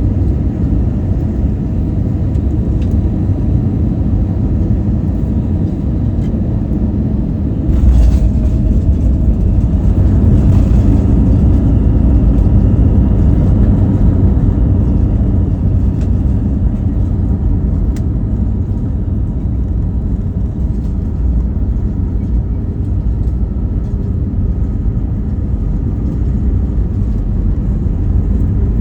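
Airliner cabin noise: a steady low rumble of the jet engines and airflow heard from inside the passenger cabin, growing suddenly louder about eight seconds in for several seconds before settling again.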